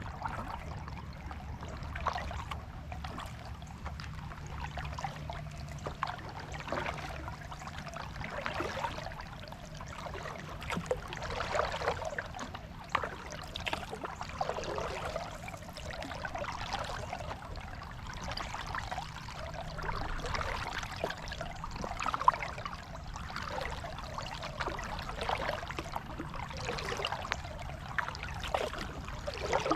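Water splashing and trickling around a kayak as it is paddled, with irregular surges every second or two, like water running off the paddle blades.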